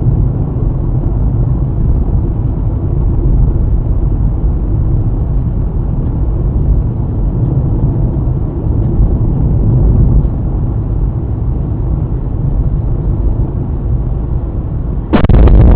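Steady low rumble of a car driving, engine and road noise as picked up by a dashcam. About fifteen seconds in it cuts abruptly to a louder, different recording.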